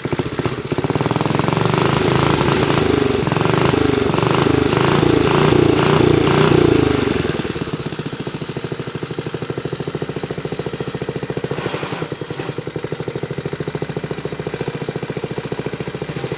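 Minibike's small Briggs & Stratton single-cylinder engine running, revved up for several seconds and then dropping back to a steadier idle about seven seconds in. The centrifugal clutch is chattering because it engages too early, which the owner puts down to missing or worn-out clutch springs.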